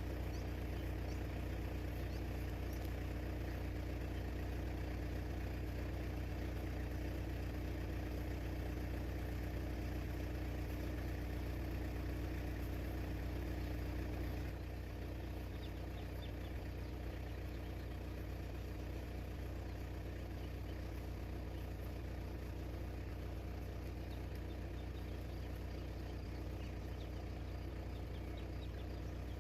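A steady engine hum, like a motor idling, that drops slightly in level about halfway through.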